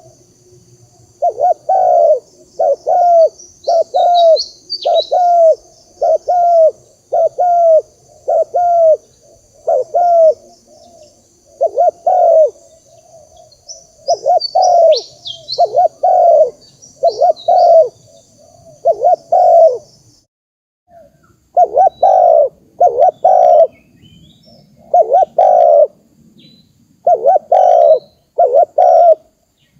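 Spotted dove cooing over and over in runs of short, low coos, about one or two a second, with brief gaps between runs. This is the male's call, used as a lure to draw in wild doves. A faint high steady whine and a few quick high chirps sit above it and stop about two-thirds of the way through.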